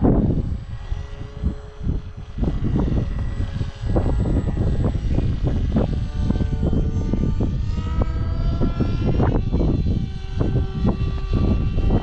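Small electric motor and propeller of a foam flying wing whining overhead, its pitch sliding up and down with throttle and passes, over heavy wind buffeting the microphone.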